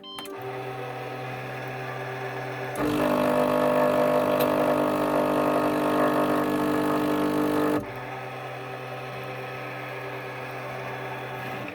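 Krups coffee machine switched on with a click and humming steadily. About three seconds in, its water pump starts buzzing loudly, runs for about five seconds and stops, leaving the hum. The machine's water circuit isn't functioning.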